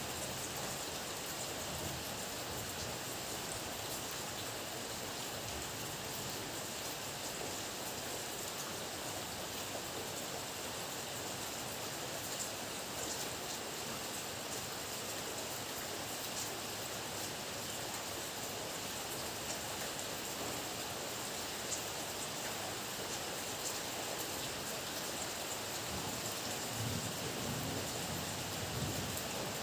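Heavy rain falling steadily, a dense hiss with scattered drops tapping. A low rumble of thunder starts to swell in the last few seconds.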